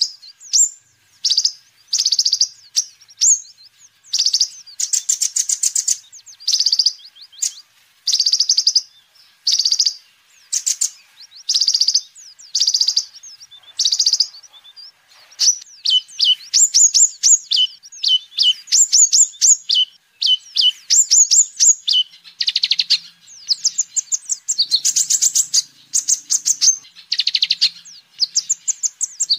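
Olive-backed sunbird (kolibri ninja) singing: loud, high, rapid trilled phrases of about half a second each, repeated with short pauses. From about halfway through, the phrases turn into quick runs of down-slurred notes.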